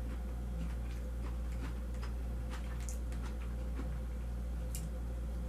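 Faint scattered clicks of eating over a steady low electrical hum.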